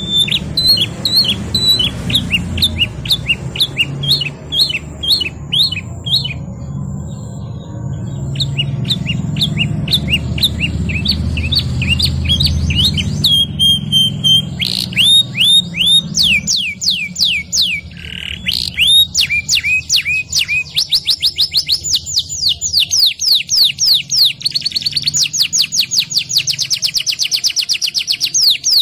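Domestic canary singing a continuous song of rolled trills: fast runs of the same sweeping note repeated many times, switching to a new note every few seconds, with the quickest trill near the end. A low background rumble sits under the first half.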